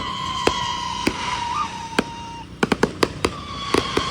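Fireworks going off during a display finale: a string of sharp bangs and reports at irregular spacing, bunched together a little past halfway. Under them is a long steady whistle that drifts slightly down in pitch, twice.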